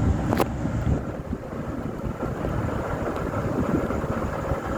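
Passenger train running into the station with a steady low rumble, with wind buffeting the microphone. There is one sharp click about half a second in.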